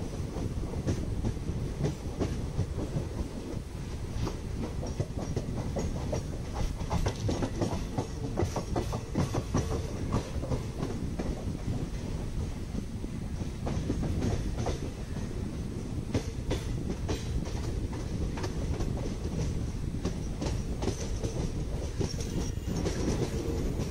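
Passenger train running along the rails, heard from an open coach doorway: a steady low rumble with the clickety-clack of wheels over rail joints. Near the end another train is running close alongside on the next track.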